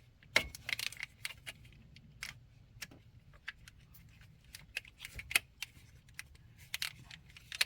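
Irregular light clicks and rattles as clips and parts are handled and fitted into place.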